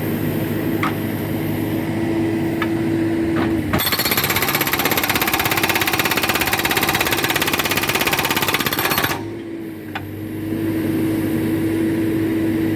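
A backhoe engine runs with a steady hum. About four seconds in, the hydraulic rock breaker hammers in a rapid, even run of blows for about five seconds and stops abruptly. The engine drops briefly, then comes back up.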